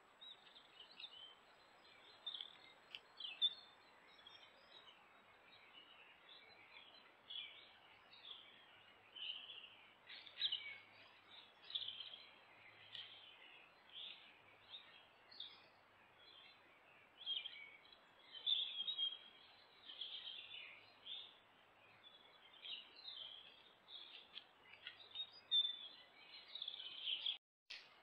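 Woodland birds singing and calling, many short chirps and trills overlapping throughout, over a steady hiss from a trail camera's microphone. The sound cuts out briefly near the end.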